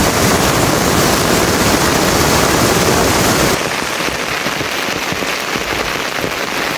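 Rain falling: a dense, steady rush of rain, which about three and a half seconds in cuts abruptly to lighter, quieter rain with many separate drops striking.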